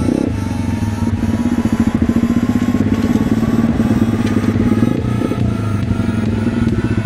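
Single-cylinder engine of a 125 cc pit bike running hard at fairly steady revs, its firing heard as a fast, even pulse.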